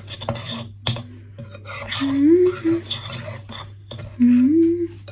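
Spoon scraping and clicking against a mixing bowl while butter and sugar are stirred together. Two short rising hums, each under a second, about two and four seconds in, are the loudest sounds.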